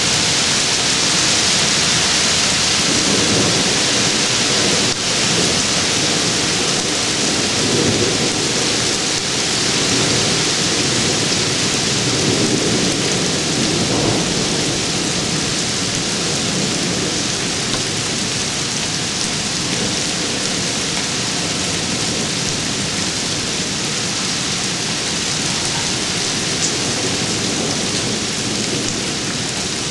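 Heavy thunderstorm downpour: a dense, steady hiss of rain. A low rumble of thunder swells and fades through the first half.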